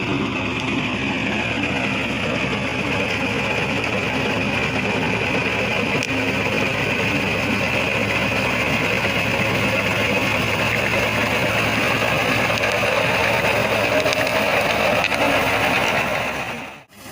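Tractor engine running steadily at a constant speed. The sound drops out briefly near the end.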